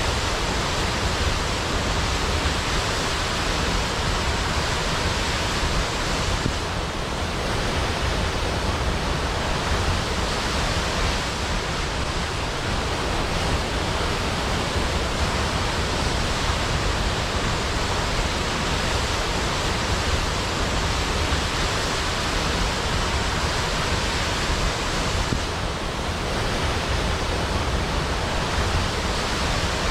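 Large waterfall: a steady, dense rush of falling water with a full low rumble.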